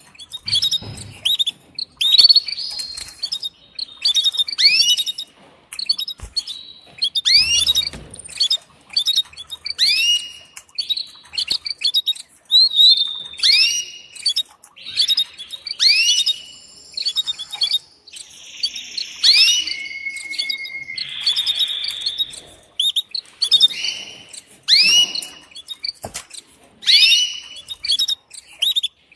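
Female canary calling to a male to mate: short, sharp, rising chirps repeated over and over, one or two a second. A few longer held notes come in around the middle.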